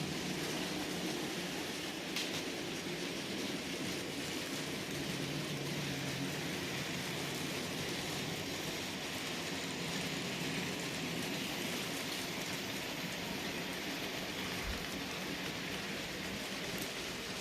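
Several N gauge model trains running at once on the layout: a steady, even hiss of wheels and small motors on the track.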